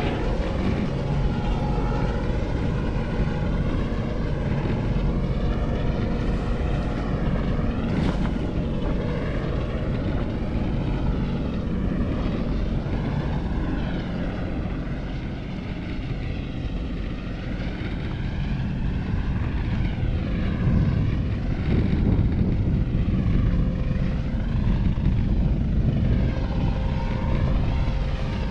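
Coast Guard helicopter hovering and circling overhead: steady rotor and engine noise with a slowly wavering, sweeping whoosh as it moves.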